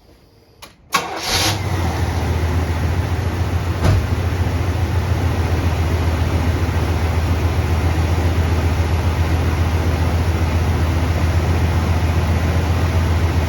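1972 Chevrolet Monte Carlo's 350 small-block V8 with a two-barrel carburettor starting: a click, then the engine catches about a second in and settles into a steady, smooth idle, with one brief thump about four seconds in.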